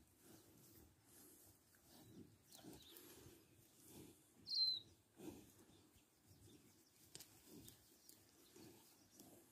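Near silence with faint irregular rustling, broken once about halfway through by a single short bird chirp that drops in pitch.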